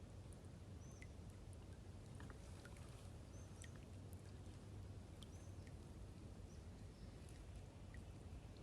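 Faint songbird chirps: a handful of short, high calls scattered through, over a low, steady outdoor background rush with a few faint ticks.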